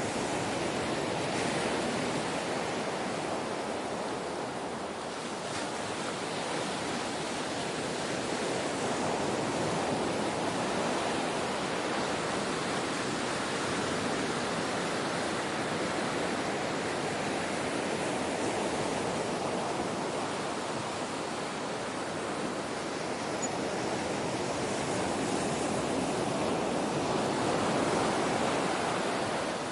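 Ocean surf washing continuously onto the shore, swelling and easing gently, with the largest surge near the end.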